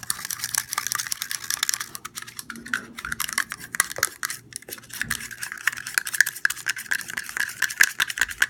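A utensil stirring shampoo and salt in a bowl: a fast, continuous run of clicks and scrapes against the bowl.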